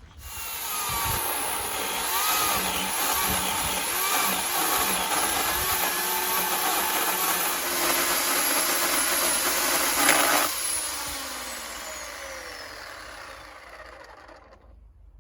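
Small electric chainsaw with a thin Panther Cub bar and 1/4" chain cutting along the grain of walnut, its motor pitch wavering under load. About ten seconds in the trigger is released and the motor winds down with a falling whine.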